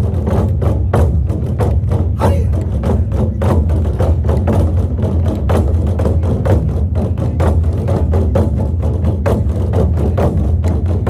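Drum ensemble playing a fast, steady rhythm of sharp strikes over a continuous low bass.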